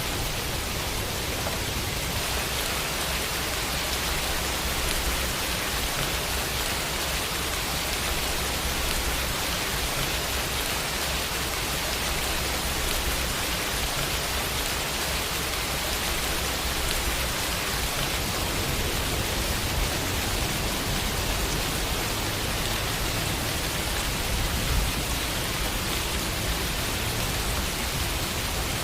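Steady rain falling on a window, a constant even hiss of drops on the glass.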